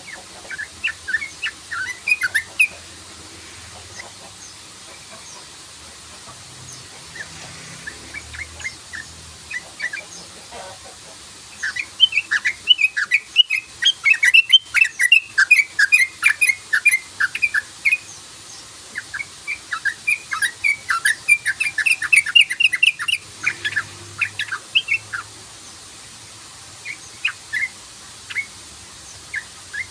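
Yellow-vented bulbul (trucukan) calling in rapid runs of short 'cruk-cruk-cruk' notes. The runs are thickest and loudest through the middle and thin out to scattered notes near the end.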